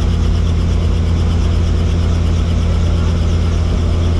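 Helicopter engine and rotor drone heard inside the cabin: a loud, steady low hum with stacked tones above it, unchanging throughout.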